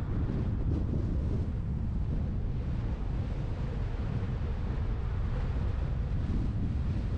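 Wind buffeting the microphone of a roof-mounted GoPro on a moving truck, a steady low rumble of wind and road noise.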